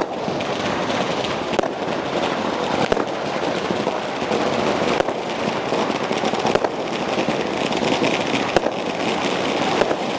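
A string of firecrackers going off in a continuous rapid crackle of pops, with louder sharp bangs scattered through it.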